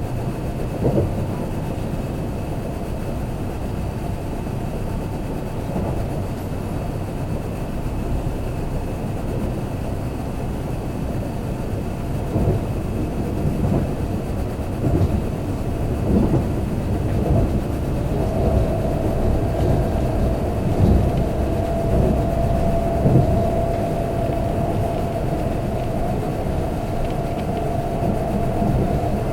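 Kintetsu limited express train running along the track, heard inside the passenger cabin: a steady rumble with scattered short thuds. A steady tone joins about two-thirds of the way through and holds.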